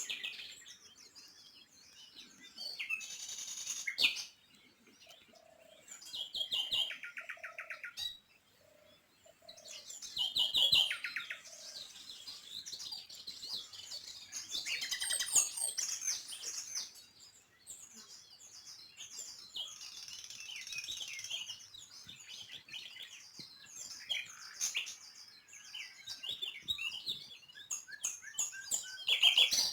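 Several small songbirds chirping and singing together, with overlapping calls and quick rattling trills.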